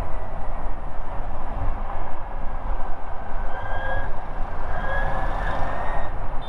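Ather 450X electric scooter on the move: a steady heavy rumble of wind and road noise, with the motor's thin high whine rising in pitch through the second half as the scooter picks up speed.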